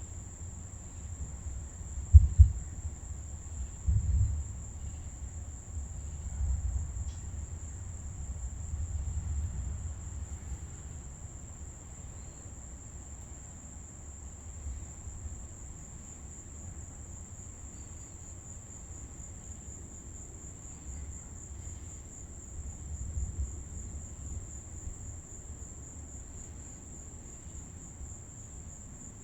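Steady high-pitched chorus of insects trilling, with low rumbles coming and going and a sharp low thump about two seconds in.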